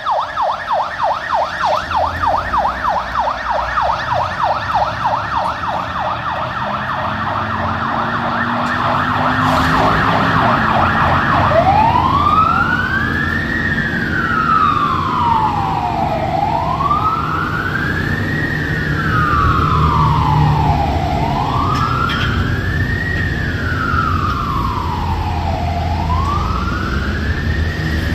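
Emergency vehicle's electronic siren in a fast yelp, sweeping up and down several times a second, then switching about eleven seconds in to a slow wail that rises and falls about every five seconds. A steady vehicle engine and road noise run underneath.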